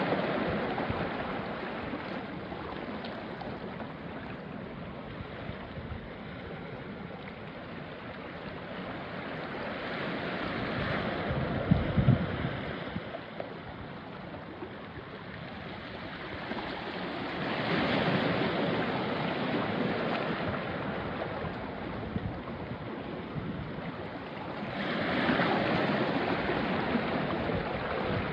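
Small waves of the Irish Sea washing onto a rocky shore. Each surge of hiss builds and fades about every seven seconds, with a brief low thump a little before the middle.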